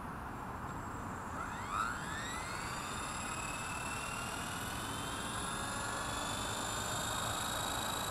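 Blade 230S V2 electric RC helicopter spooling up on the ground: a motor and rotor whine starts about a second and a half in, rises in pitch, then levels off into a steady high whine.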